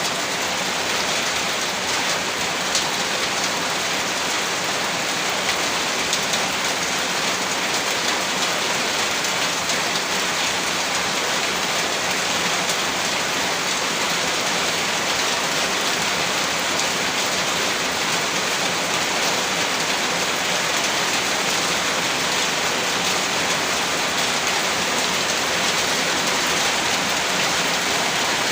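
Heavy rain falling steadily, a dense even patter of drops on surfaces with no letup.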